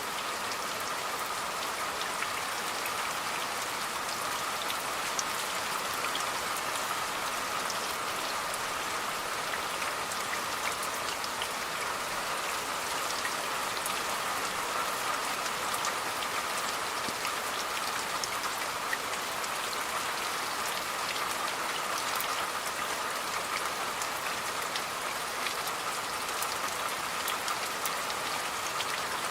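Steady rain falling, with many separate drops ticking sharply on a surface over an even hiss.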